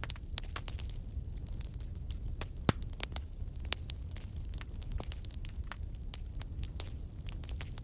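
Wood fire in a fireplace crackling: frequent, irregular sharp pops and snaps over a steady low rumble, with one louder pop a little under three seconds in.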